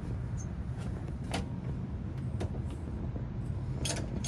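Metal controls of an old locomotive exhibit being handled, giving a few sharp clicks and knocks over a steady low rumble.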